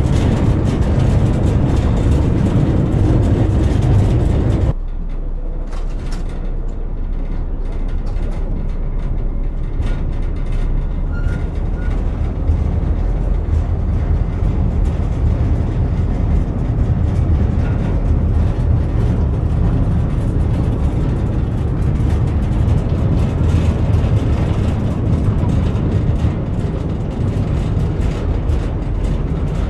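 Narrow-gauge train running, heard from an open wagon: a steady, heavy low rumble. It changes abruptly about five seconds in and goes on lower and duller.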